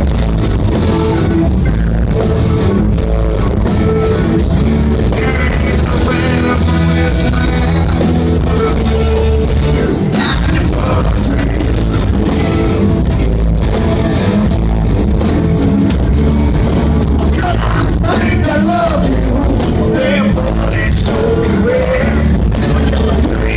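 Live rock band playing loud, with electric guitars, a steady drum beat and a male lead vocal, recorded from the audience in a concert hall.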